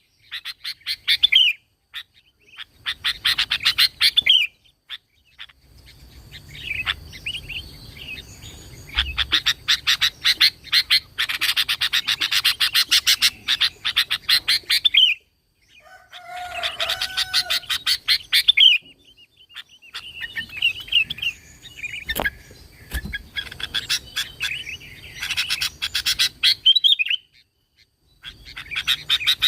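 Sooty-headed bulbul (kutilang) singing vigorously in a series of fast chattering phrases of rapid notes, with short breaks between them.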